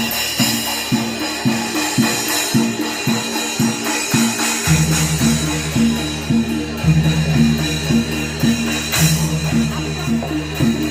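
Live Barongan Blora ensemble music: drums and jingling percussion keep an even beat of about two strokes a second over high ringing metal tones. Deep gong-like tones sound three times, starting about halfway through.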